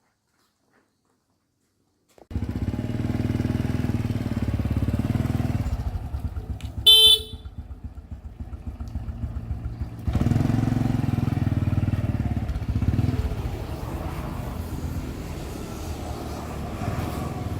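Motorbike engine starting up about two seconds in and running steadily, with a horn honked once, briefly and loudly, about seven seconds in.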